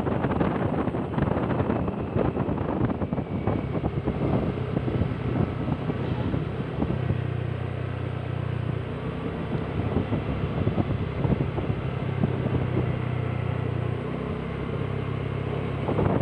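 A vehicle engine running on the move, with wind buffeting the microphone; a steadier low engine hum comes through in the middle stretch and eases off near the end.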